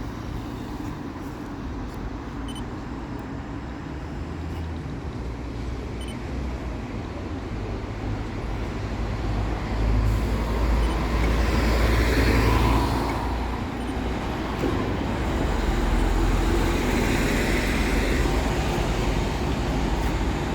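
Vehicle traffic rumbling, growing louder about halfway in and swelling twice as heavier vehicles go by.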